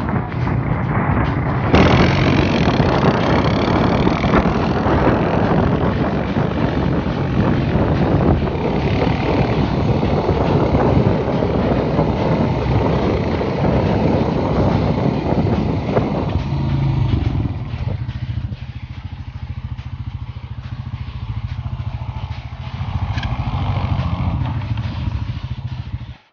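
Honda Rancher ATV engine running hard, with a surge of throttle about two seconds in and a steady run after it. Near the end it drops to a lower, quieter, steadier note.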